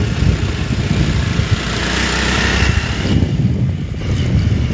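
Motorcycle running under way, with a heavy, ragged low rumble. A rushing hiss swells and cuts off sharply about three seconds in.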